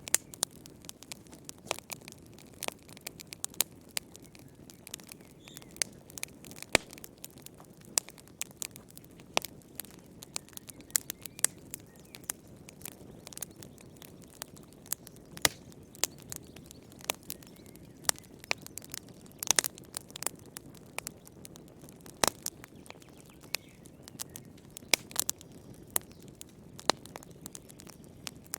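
Wood fire in a fireplace crackling, with irregular sharp pops and snaps over a faint low rush of flames.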